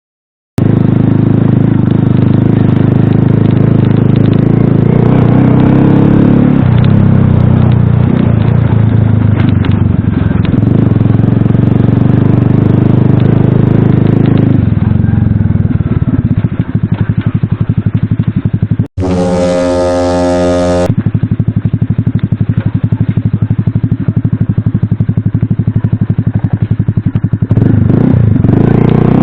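Small single-cylinder moped engine running under load while riding, its note rising and falling with the throttle. About two-thirds of the way through it breaks off for roughly two seconds into a cleaner, steadier engine tone, then the riding sound resumes.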